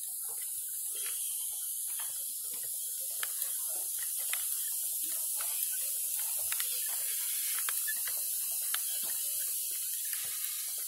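A steady high hiss with many small, irregular clicks and ticks scattered through it.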